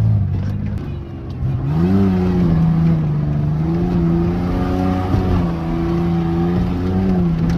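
Beater pickup truck's engine running under way with its exhaust partly disconnected and leaking; the revs climb about a second and a half in, then hold steady, with a brief rise near the end. The engine has a misfire that the owner still has to fix.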